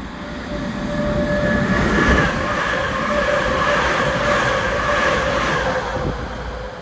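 Northern passenger multiple-unit train running through the platform at speed: the rumble of wheels on rail swells over the first couple of seconds and holds as the carriages pass, with a steady whine over it.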